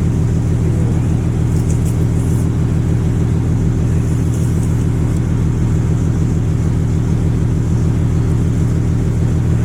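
Turbo Cummins diesel engine of a Dodge Ram 3500 pickup running steadily, with no revving.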